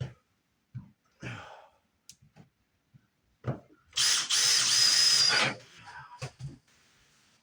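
A power drill runs for about a second and a half, its motor whining, amid scattered knocks and clunks of tools and materials being handled.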